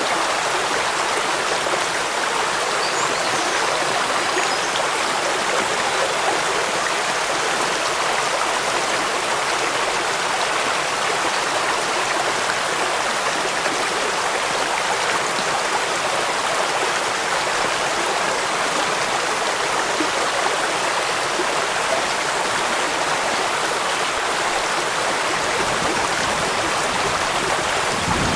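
Waterfall rushing steadily: an even, unbroken hiss of falling water without any separate splashes or a deep rumble.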